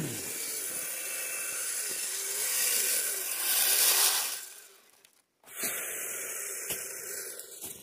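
RC snow vehicle driving through snow: its motor and gearing whine, wavering with the throttle, over a steady hiss. The sound swells about four seconds in, cuts out briefly a little after five seconds, then goes on more quietly.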